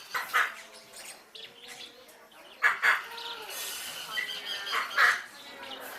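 Many parrots and other pet birds calling at once: a constant chatter of chirps and whistles, broken by three short loud calls, near the start, a little before the midpoint and near the end.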